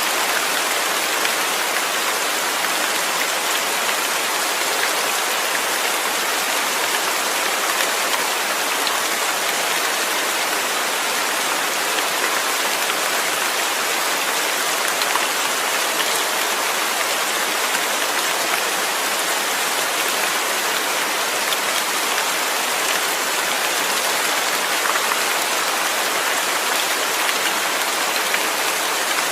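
Steady rain falling, a dense even hiss of drops with faint scattered individual drop ticks.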